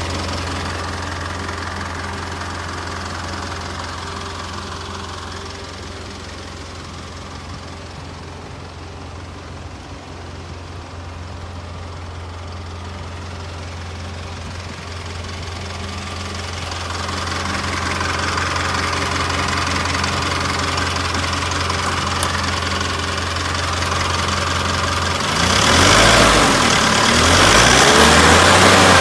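Isuzu Elf truck engine idling steadily, then revved up and down a few times near the end.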